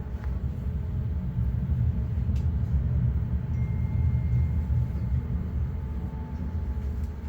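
Škoda 52T ForCity Alpha tram running, a steady low rumble that swells after a second or so and eases off near the end, with a faint thin whine above it.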